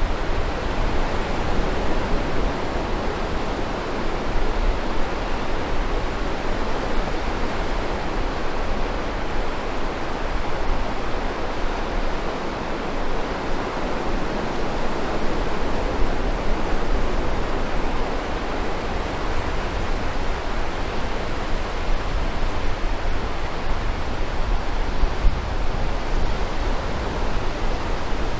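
Steady rushing outdoor noise with an uneven low rumble underneath, and no distinct events.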